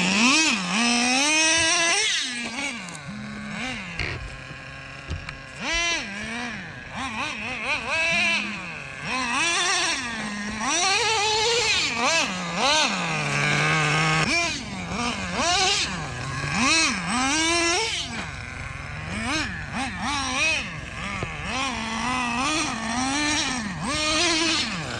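Nitro RC truck's small glow-fuel engine running hard, its pitch rising and falling over and over as the throttle is worked on and off.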